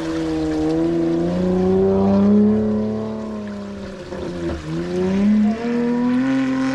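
A vehicle engine revving, its pitch climbing, dropping sharply about four and a half seconds in, then climbing again.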